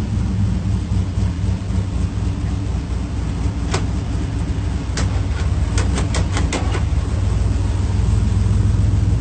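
Dodge Charger-based movie car's engine running at a steady, deep idle. Partway through comes a quick series of about seven sharp clicks.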